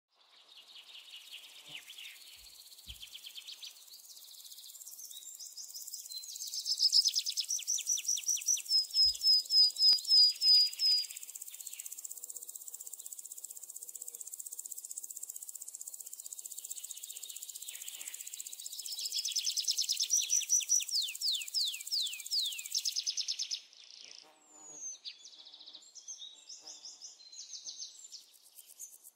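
Small birds singing: fast high trills and runs of quick notes sweeping downward, loudest in two long stretches, over a steady high hiss. About four-fifths of the way through the hiss drops out, leaving scattered chirps.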